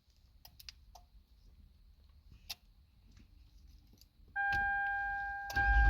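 Remote start of a 2008 Toyota Sienna: a few faint clicks, then a steady electronic warning tone comes on about four seconds in, and the 3.5-litre V6 engine starts near the end with a low rumble.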